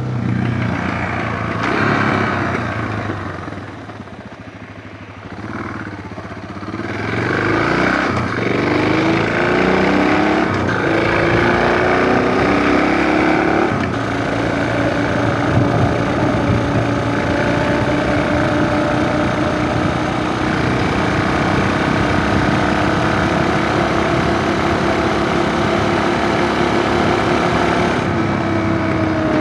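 Suzuki DR650's single-cylinder engine running while riding. Its pitch rises and falls with the throttle in the first half, dips quieter for a few seconds, then holds steady.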